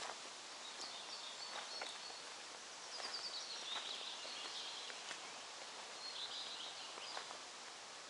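Small songbirds chirping in short trills over a steady background hiss, with a few soft clicks scattered through.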